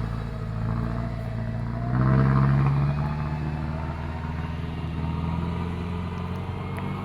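Truck engine running under load while climbing a steep incline. It gets louder for about a second, about two seconds in.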